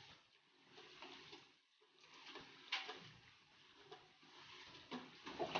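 Near silence: faint room tone with a few soft clicks, the loudest about three seconds in.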